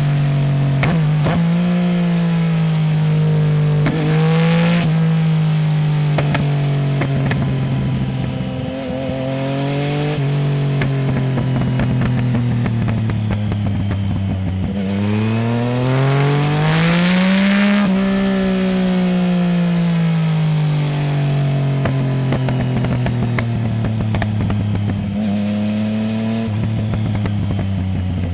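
Yamaha Tracer 900 GT's three-cylinder engine through a full Roads Italia exhaust with no dB killer, under way: the revs sink slowly for the first half as the bike rolls off. About halfway through the engine revs up hard for a few seconds, then falls back and eases down again.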